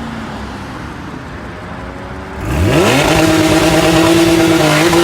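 A car engine running at a steady moderate speed, then revving up sharply about halfway through and held at high revs, much louder.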